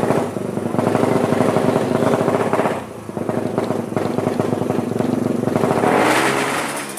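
Drag-tuned Yamaha Jupiter single-cylinder four-stroke engine being revved, the revs dropping briefly about three seconds in and climbing high again near the end.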